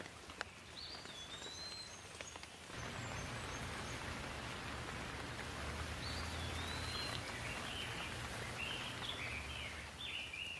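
Rain falling with scattered drop ticks while birds chirp in short falling notes. About three seconds in a low rumble of thunder sets in with a louder rain hiss and rolls on until near the end.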